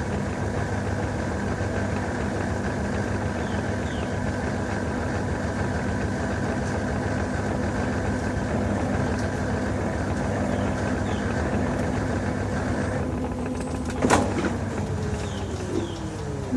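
LG TurboDrum washing machine running with a steady motor hum. About fourteen seconds in there is a sharp clunk, then a falling whine as the drive slows.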